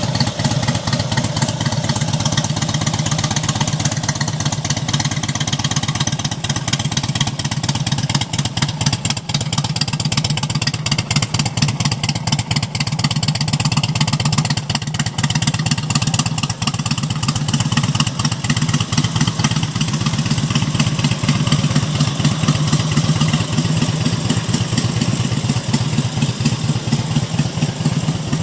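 2002 Harley-Davidson Road King's Twin Cam 88 V-twin engine running steadily at a constant speed, a loud, even pulsing with no revving.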